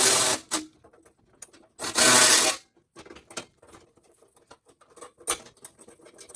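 Ratchet running bolts into the bumper assembly in two short rasping bursts, one at the start and a louder one about two seconds in, followed by scattered light clicks and taps of tools and parts.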